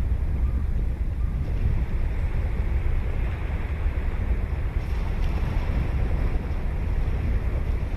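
Ocean surf washing steadily onto the beach, with wind buffeting the microphone as a heavy low rumble underneath.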